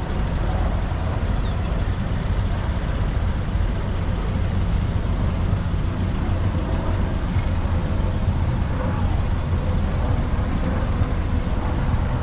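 Steady low rumble of car engines, with a faint murmur of voices.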